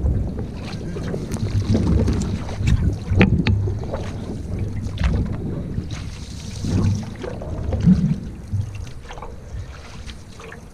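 Canoe out on the water, with wind buffeting the microphone in gusts and a few sharp knocks and splashes, mostly in the first few seconds.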